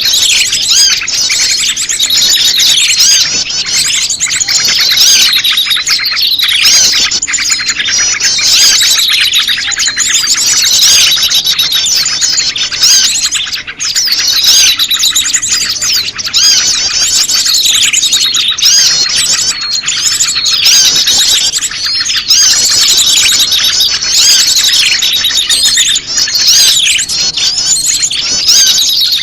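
Bird-lure recording of prenjak lumut calls mixed with a noisy chorus of other small birds: dense, continuous high-pitched chirping and trilling with many short falling notes, loud and unbroken.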